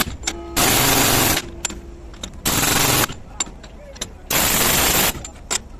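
Pneumatic impact wrench hammering in three short bursts of under a second each, with small metallic clicks and knocks between them.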